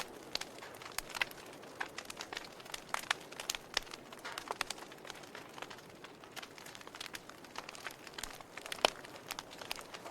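Wood fire burning in a fireplace, crackling with many irregular sharp pops over a soft hiss, one pop louder than the rest near the end.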